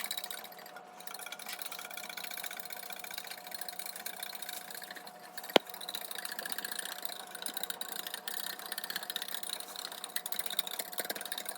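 Egg mixture being beaten fast with a whisk in a glass container: a rapid, steady scraping and clinking rhythm, with one sharp knock against the glass a little past halfway.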